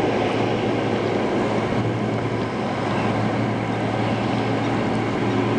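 Steady low hum of a motorboat engine mixed with wind and water noise, unchanging throughout.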